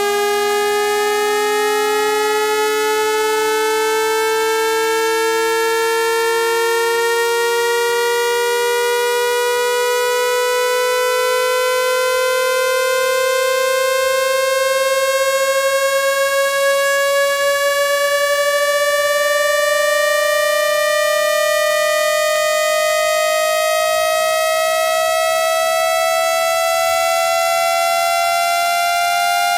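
Electronically generated speaker-cleaning tone sweep: a steady buzzy tone with many overtones, slowly rising in pitch throughout. A fainter lower tone climbs faster and merges with it about halfway through, with a brief wavering where they meet. It is played loud to vibrate water and dust out of a phone's earpiece mesh.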